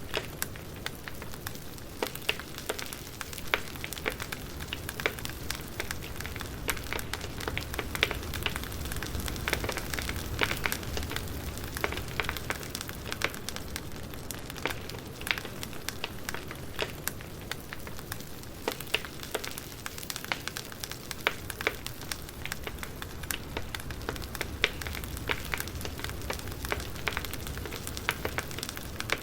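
Wood fire crackling: irregular sharp pops and snaps over a steady low hiss and rumble of burning logs.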